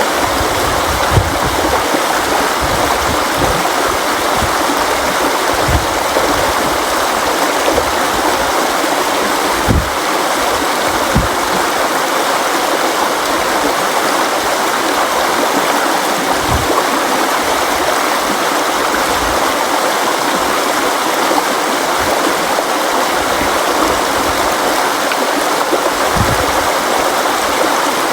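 River water flowing in a steady rush, with an occasional brief low splash or thud.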